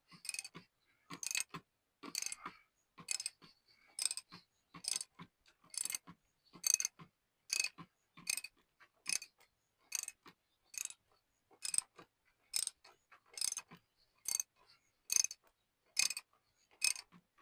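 Socket ratchet with a 1.25-inch socket working the oil filter housing cap loose on a BMW B58 engine: a short burst of ratchet clicks on each back-swing, about one a second, steady and regular.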